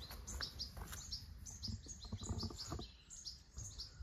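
Small songbirds chirping: short, high, falling notes repeated several times a second, over a low rumble.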